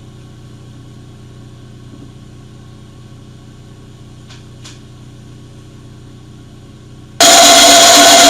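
Low steady hum of an idle machine shop with two faint clicks. About seven seconds in, a machine tool driving a 2-inch annular cutter abruptly comes on loud, with a steady whine, as the cutter is power-fed into a cold-rolled steel block.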